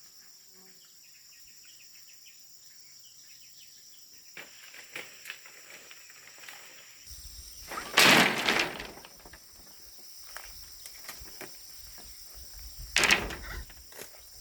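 Two loud rustling crashes, the first about halfway through and lasting nearly a second, the second shorter near the end, amid scattered light knocks, over a steady high-pitched hiss.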